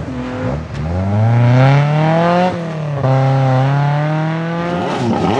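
Rally car engine accelerating hard under load, its pitch climbing steeply, then dropping sharply at an upshift about two and a half seconds in before it pulls on at high revs.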